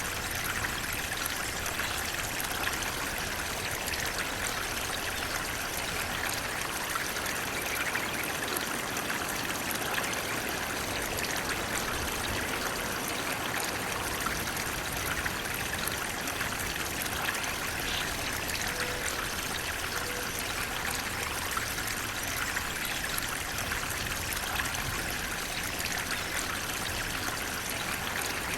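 Flowing water running steadily: an even, unbroken rush.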